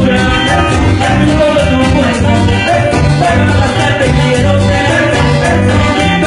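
Cumbia played by a tropical band: a steady, repeating bass line under regular percussion strokes and shaker, with melody instruments on top.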